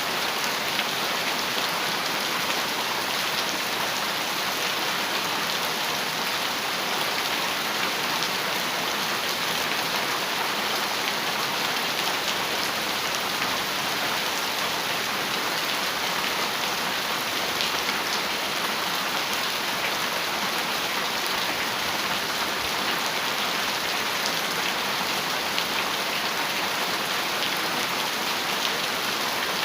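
Heavy rain falling steadily on a metal roof: a dense, even patter of drops that does not let up.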